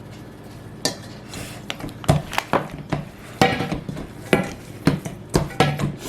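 Ground chicken and cheese being mixed by hand in a bowl, with irregular knocks and clatters of the bowl, a dozen or so, some ringing briefly.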